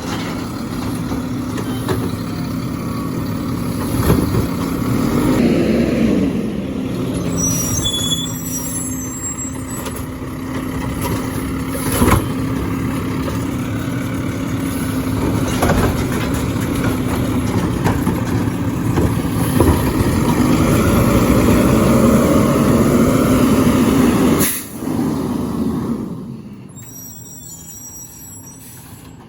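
Garbage truck engine running steadily, rising in pitch twice as it revs to work the hydraulic lift that picks up and empties a trash can, with a few sharp knocks from the can. The truck's sound falls away near the end.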